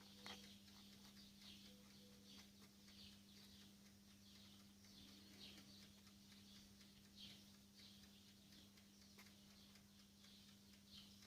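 Near silence: room tone with a steady low hum and faint, irregular high-pitched ticks.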